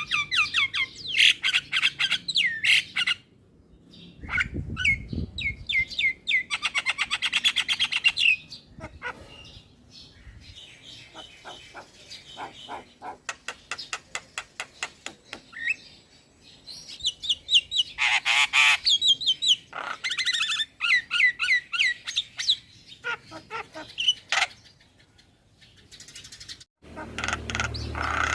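Young male Javan myna singing energetically: fast rattling trills, sharp whistled notes and harsh squawky calls in phrases broken by short pauses.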